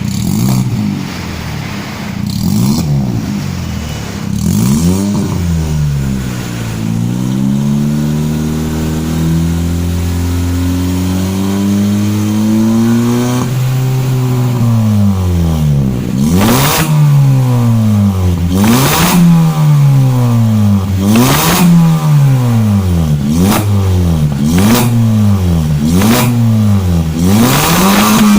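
Car exhaust with a newly fitted Alpino S03 aftermarket muffler, resonator and downpipe/front pipe, the engine being revved. A few short revs give way to a long rev that climbs slowly and falls back in the middle. Then come sharp blips, one every second or two, each with a loud rasp at its peak.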